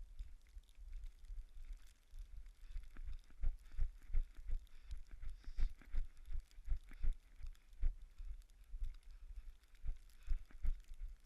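Running footsteps in snow: dull thuds at about two to three a second, over a faint steady hiss.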